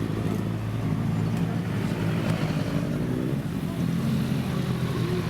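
Motorcycle engines idling steadily with a low hum, under the chatter of a crowd's voices.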